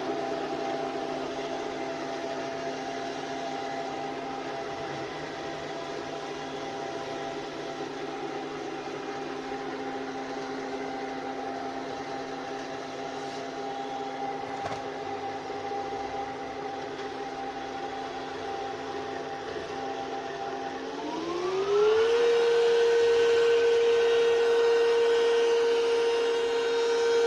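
ECOVACS DEEBOT T80 Omni robot vacuum-mop motor running with a steady hum. Near the end it spins up: the pitch rises quickly and it grows louder, settling into a higher steady whine.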